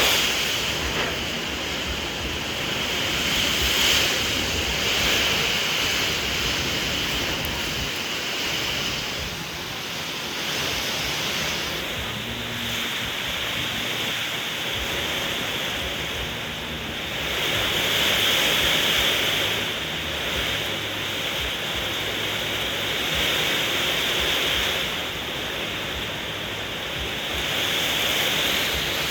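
Heavy rain pouring down in a strong windstorm: a loud, steady rushing that swells and eases in gusts.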